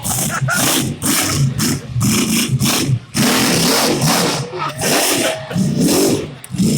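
Monster truck engine revving hard in quick repeated surges, its pitch rising and falling, with brief drops in between.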